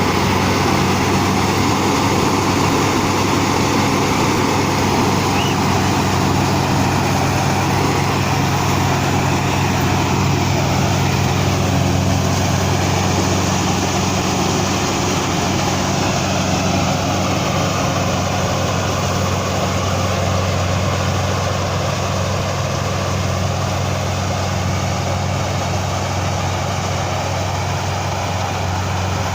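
Rice combine harvester's engine running steadily, a continuous low drone with machinery noise above it, easing slightly toward the end.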